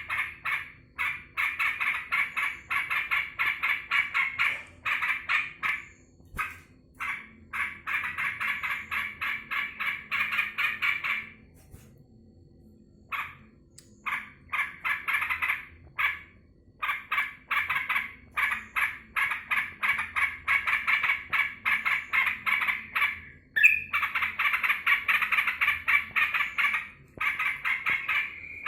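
Yellow-vented bulbul (trucukan) giving long runs of rapid chattering notes, broken by short gaps and a brief pause about halfway through. Its keeper takes this as the bird's excited greeting when he comes home.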